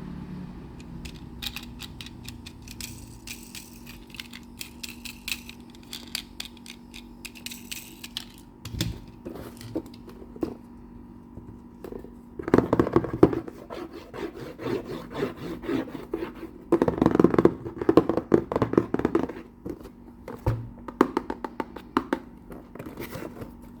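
Miniature toy construction trucks being handled: a run of light clicks and taps, then two louder stretches of scraping and rattling, about twelve and seventeen seconds in.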